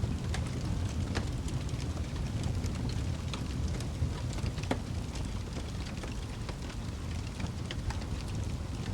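Wood fire burning in a fireplace: a steady low rumble of the flames with frequent irregular crackles and small pops from the burning wood.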